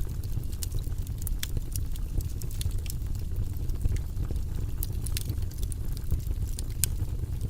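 Wood fire burning in a fireplace: frequent sharp crackles and pops, scattered irregularly over a steady low rumble.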